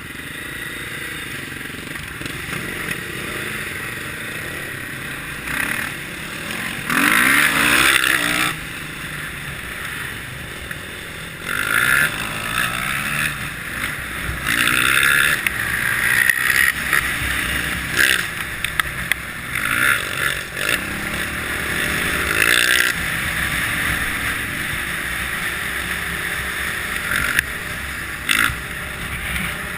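Kawasaki KLX650R single-cylinder four-stroke engine running under way, its revs repeatedly rising and falling as the bike is ridden, with loud surges of wind and rushing noise on the microphone.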